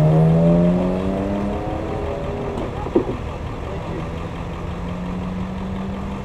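Car engine accelerating, its note rising in pitch over the first second and a half, then a steady engine tone. A single sharp click comes about three seconds in.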